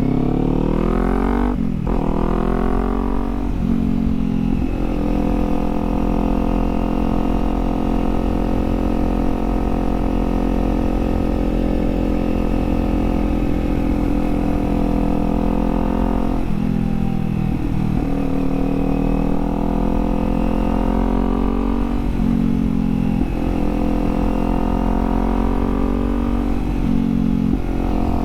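Kawasaki Z400's parallel-twin engine under way: it revs up, drops in pitch as it shifts up about two seconds in, revs up again, then holds a steady cruising note. The pitch changes again a few times later on as the throttle is eased and opened. A constant low wind rumble on the microphone runs underneath.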